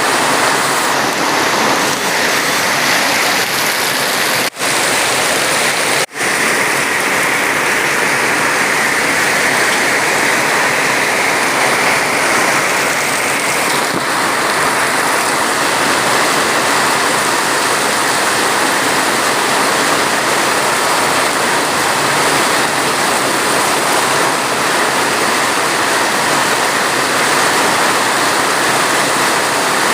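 Steady, heavy rain: a dense, even hiss of falling water. The sound cuts out for an instant twice, about four and a half and six seconds in.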